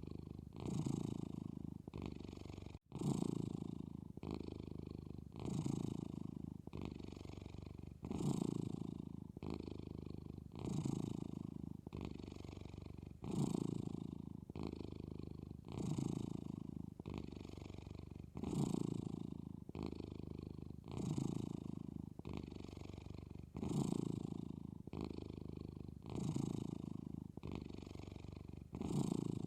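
Maine Coon kitten purring steadily while dozing. The purr swells and eases with each breath, about once every two and a half seconds, and breaks off for a moment about three seconds in.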